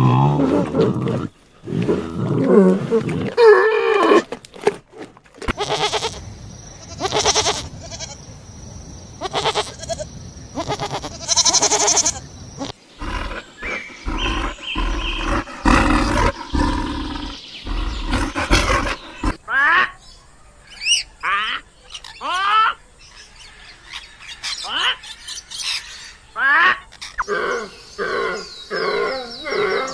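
A string of different animal calls joined one after another with abrupt cuts, including roar-like calls and, later, quick calls that sweep down in pitch.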